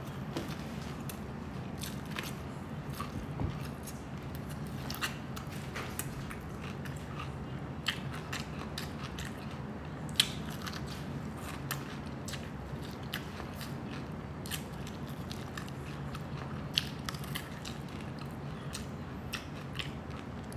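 Chewing and biting into crispy deep-fried pork belly (lechon kawali), its crackling skin giving short, sharp crunches at irregular intervals, one louder about ten seconds in, over a steady low hum.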